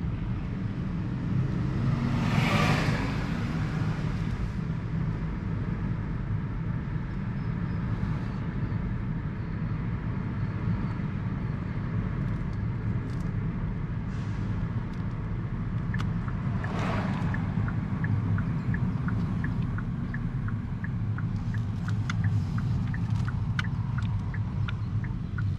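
Car driving along a street, with steady low engine and road rumble. Two other vehicles pass with a swelling whoosh, about two and a half seconds in and again about seventeen seconds in. A light, regular ticking runs through the second half.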